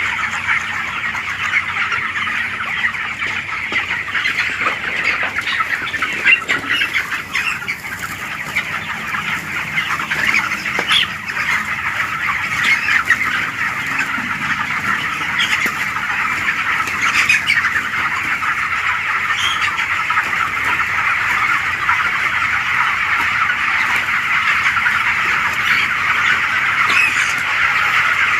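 A large flock of 27-day-old chickens in a poultry shed chirping and peeping together, a dense, steady chatter of many overlapping calls.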